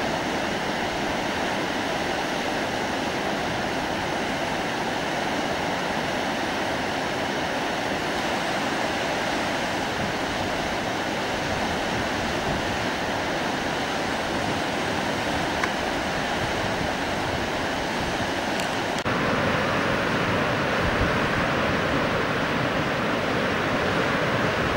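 Fast-flowing river water of the Indus, a steady rushing noise. A little past three-quarters of the way through it steps up slightly louder and brighter.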